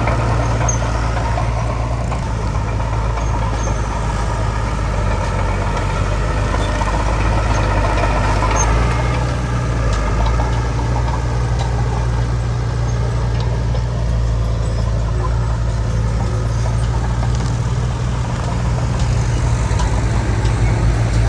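Heavy diesel earthmoving machinery running steadily with a deep engine rumble. A higher, wavering tone sits over it for about the first nine seconds, then fades.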